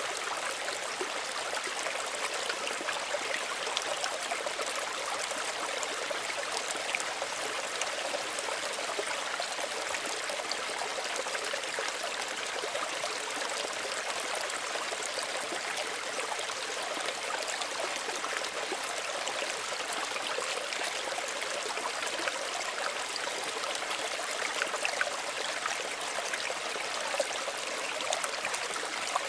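Small stream running steadily, water trickling and babbling over stones with a fine, continuous splashing hiss.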